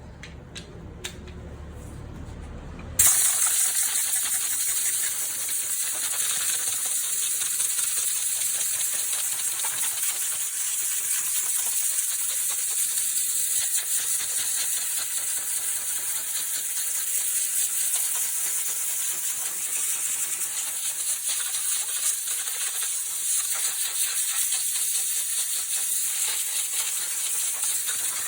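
High-pressure washer spraying water, a steady loud hiss with a rattling edge that starts suddenly about three seconds in.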